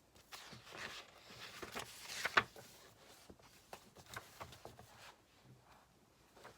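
Desk sounds from studying with paper and a ballpoint pen: about two seconds of paper rustling ending in a sharp tap, then light scattered pen and desk clicks.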